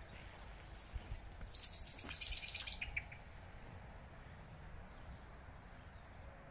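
A small bird calling: a rapid, high-pitched chattering trill that starts about a second and a half in and lasts about a second and a half.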